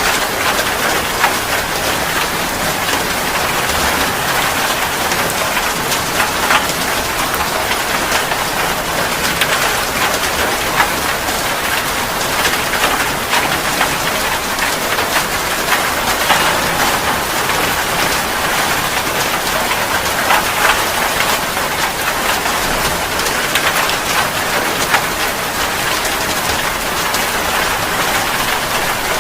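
Steady heavy rain falling on a surface, an even hiss with scattered sharper drop taps.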